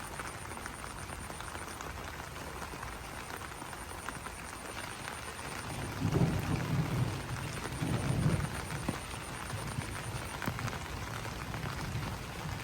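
Steady rain falling on banana leaves, an even patter of drops, with two low swells about six and eight seconds in.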